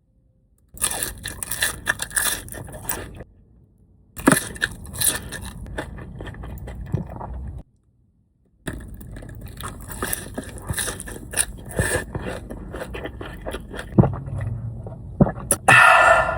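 Close-up crunching and crackling from a meal being eaten, with sharp clicks and scrapes mixed in. It comes in three stretches that each start and stop abruptly, and a louder, denser burst comes near the end.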